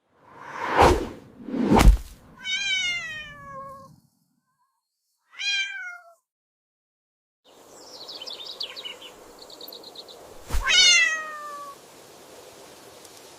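A cat meowing three times, each call falling in pitch, after two loud thumps early on. Some chirping comes before a third thump, which leads straight into the last meow.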